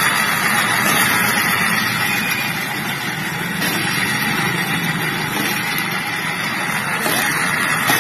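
Automatic scooter's engine and CVT running steadily with a rough rumble, the kind of noise that worn bearings, final-drive gears or rollers make; the owner suspects the pulleys, the final-gear bearing or the wheel bearing.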